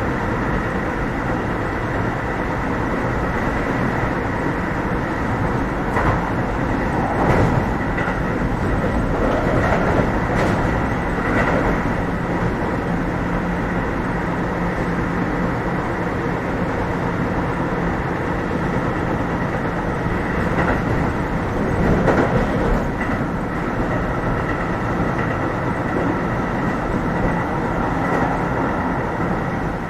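Keio 7000 series electric train running between stations, heard from inside the car: a steady rumble of wheels and running gear with a faint steady whine, broken by a few brief knocks over the rails.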